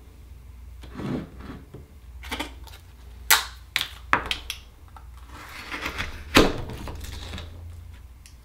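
Akoya oyster shell and tools being handled on a table: a string of sharp clicks and knocks with some scraping, as an oyster is pried open and worked for its pearl, over a low steady hum.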